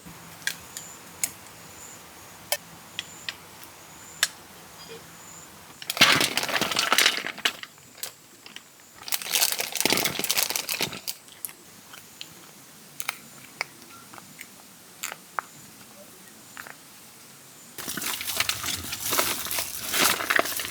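Crinkling and crunching handling noise in three bursts, with scattered sharp clicks in between.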